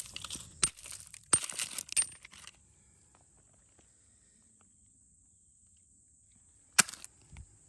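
Stones clicking and crunching on creek gravel: several sharp clicks with short crunches in the first couple of seconds, then quiet, then one more sharp click near the end.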